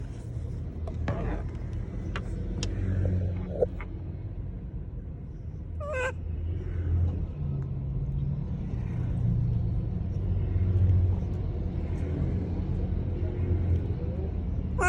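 A monkey gives one short, wavering, high-pitched call about six seconds in, over a steady low rumble.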